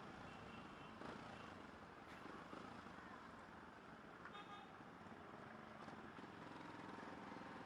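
Faint road traffic with two short vehicle horn toots, one about half a second in and one about four seconds in.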